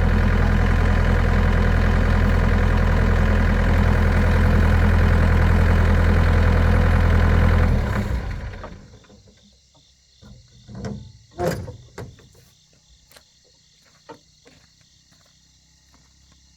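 Excavator's diesel engine idling steadily, then shut off about eight seconds in, running down within a second. A few faint knocks and clicks follow.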